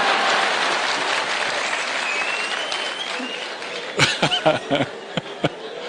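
Audience applauding, fading out after about four seconds, with a few scattered voices near the end.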